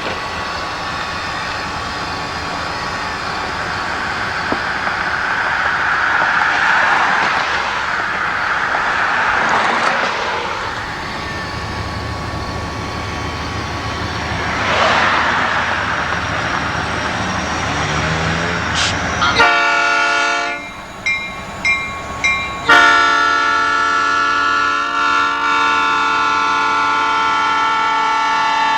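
Diesel freight locomotive approaching, a rising rumble with a low engine drone, then its multi-chime air horn sounds about two-thirds in: a few short blasts followed by one long held blast, as for a grade crossing.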